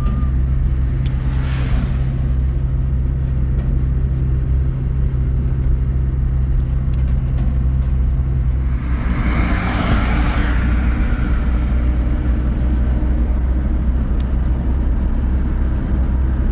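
Vehicle engine running steadily with road noise, a low hum. About nine seconds in the engine note shifts and a rush of noise swells for a couple of seconds.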